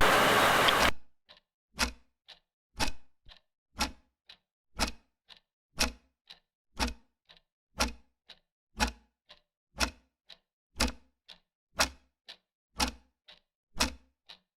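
Clock ticking steadily, with a strong tick about once a second and a fainter tick between each pair. At the very start a loud burst of hissing noise lasts about a second over the ticking.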